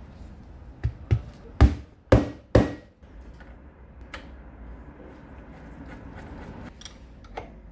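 Five sharp knocks in quick succession, about half a second apart, followed by a few lighter clicks and taps.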